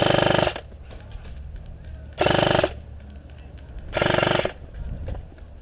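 Classic Army SCAR-L airsoft electric gun (AEG) firing three short full-auto bursts, about half a second each: one at the start, one about two seconds in, and one about four seconds in.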